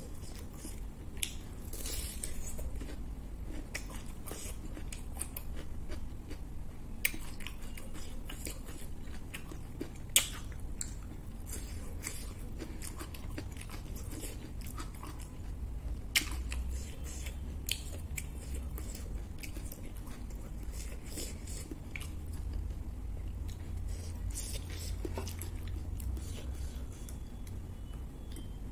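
A person chewing food close to the microphone, with sharp crunches now and then.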